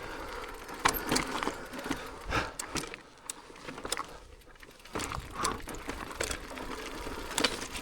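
E-mountain bike riding down a rough, rutted trail: the tyres crunch over stones while the bike rattles, with irregular clicks and knocks. It goes quieter for a couple of seconds in the middle.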